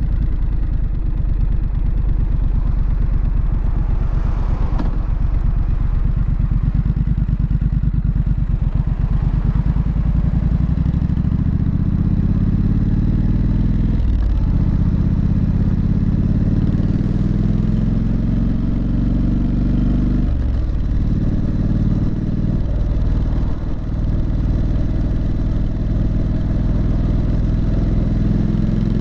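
Triumph Street Scrambler's 900 cc parallel-twin engine and exhaust, steady at low revs at first, then rising in pitch as the bike accelerates. Brief dips about 14 and 20 seconds in are upshifts between gears.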